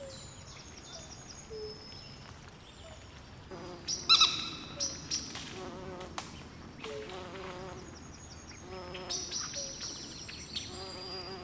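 Night swamp chorus of frogs and insects calling: overlapping short chirps and trills, high and low, over a faint steady hiss. A louder call stands out about four seconds in, and another cluster of calls comes about nine seconds in.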